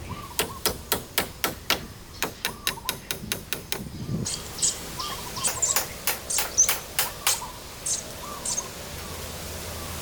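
Rapid sharp knocks, about four a second, from a tool striking during work on a shelter. About four seconds in they become sparser and irregular. Small birds chirp throughout.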